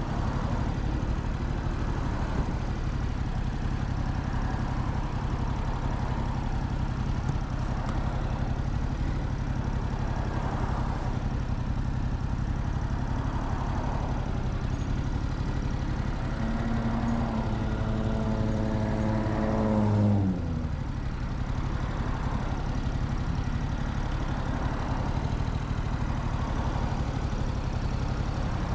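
Motorcycle engine running under way, with a steady low hum and road and wind noise. About sixteen seconds in a stronger engine note builds for a few seconds, then falls sharply in pitch and drops away just after twenty seconds, like the throttle being rolled off.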